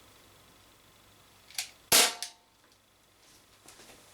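Umarex XBG CO2 BB pistol firing a single shot with a lead BB: one sharp crack just under two seconds in, with a softer click just before it and another just after.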